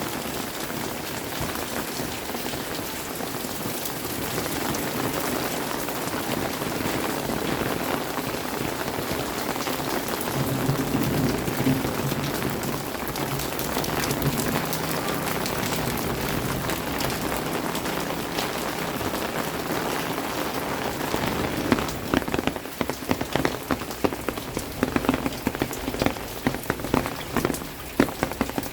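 Steady rain falling on the ground. From about two-thirds of the way through, loud close drops start hitting a surface in irregular taps over the hiss.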